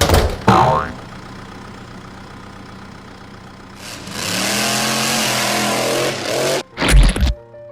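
Cartoon engine sound effect: a sharp hit at the start, a low engine hum, then about four seconds in the engine revs loudly for under three seconds before cutting off, followed by a heavy thump near the end.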